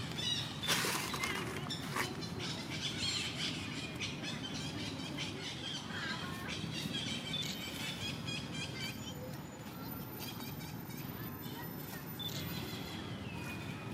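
Birds chirping and calling over a steady low background murmur, with one short harsh burst of noise about a second in.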